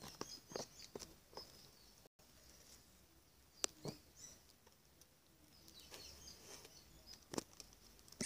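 Faint, high-pitched squeaks from young puppies, with a few soft knocks and clicks, the loudest about three and a half seconds in.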